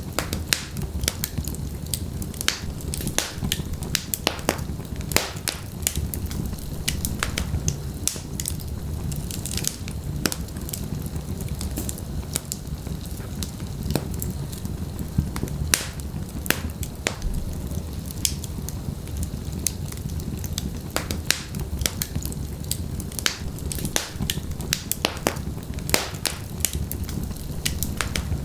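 Wood fire in a fireplace, logs burning with frequent sharp crackles and pops over a steady low rumble of flame.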